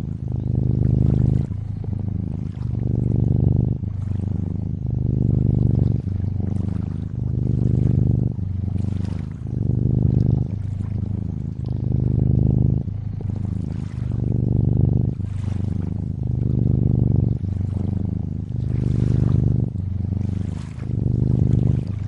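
Cat purring, a low rhythmic rumble that swells and eases about every second and a half with each breath in and out, over gentle lakeside water sounds.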